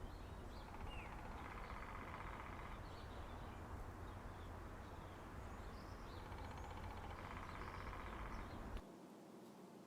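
Woodpecker drumming: two rapid, even rolls of taps on wood, the second longer, over a low outdoor rumble that cuts off near the end.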